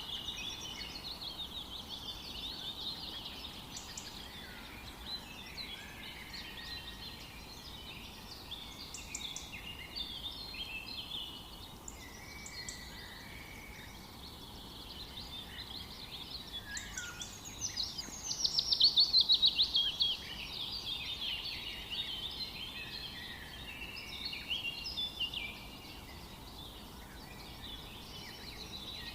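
Several wild birds singing at once in a forest, a chorus of overlapping chirps and short song phrases. About two-thirds of the way through, one bird sings a loud, fast trill that falls steadily in pitch.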